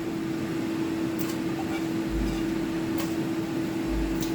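A steady mechanical hum, like a kitchen fan or appliance running, with a few light clicks.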